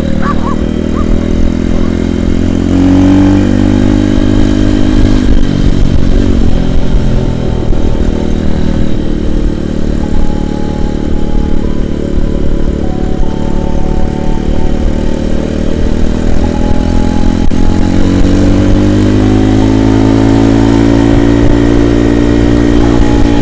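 Avantis 150 Classic pit bike's single-cylinder engine running under way. It revs up in pitch around three seconds in and again over the last few seconds, and runs steadier in between.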